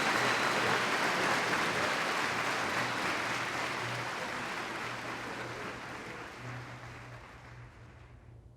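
Audience applauding, the applause gradually dying away and stopping near the end.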